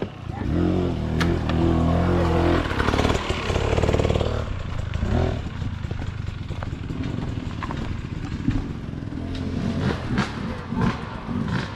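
Dirt bike engine running and revving, the pitch climbing about three seconds in and then easing off.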